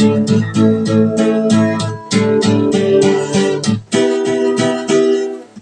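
Acoustic guitar strumming chords in a steady rhythm, about three strokes a second, with a brief pause near the end.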